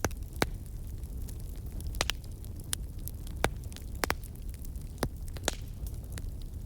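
Wood fire in a fireplace crackling, with sharp pops and snaps about once or twice a second over a steady low rumble of burning.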